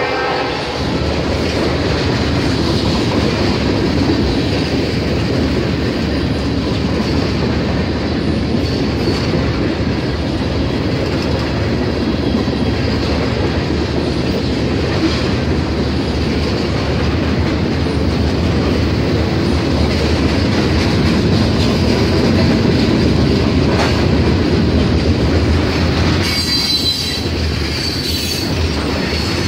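Freight train of tank cars and covered hopper cars rolling past: a steady rumble of steel wheels on rail with clickety-clack from the rail joints. Near the end there is a brief high wheel squeal.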